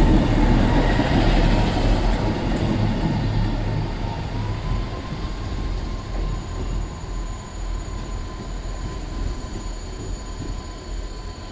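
A train rumbling by and fading steadily into the distance, with a thin, steady whine running under the noise.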